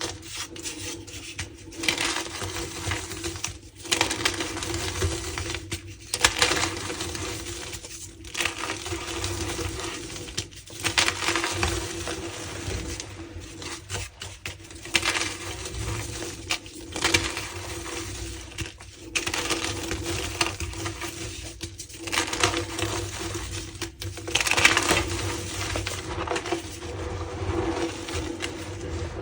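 Reformed gym chalk blocks being crushed, with crunchy crackling in repeated bouts about every two seconds.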